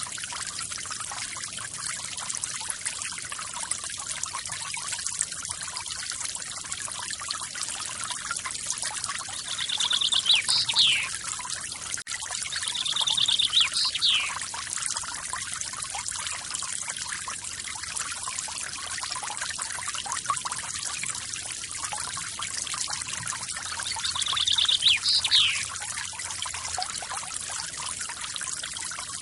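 Forest waterfall splashing and trickling steadily, with a bird calling three times; each call is a quick trill followed by a falling whistle.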